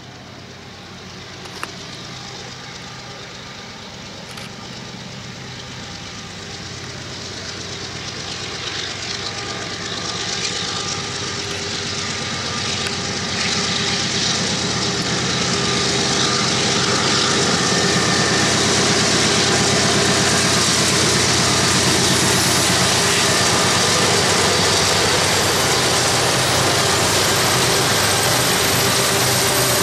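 Diesel locomotives of a BNSF double-stack freight train approaching, their engine drone growing steadily louder for about the first eighteen seconds. It then holds loud and steady as the lead locomotives pass close by.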